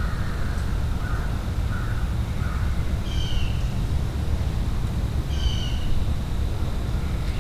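Wild birds calling in woodland: four short harsh calls in quick succession, then two longer, higher harsh calls about two seconds apart, over a steady low rumble.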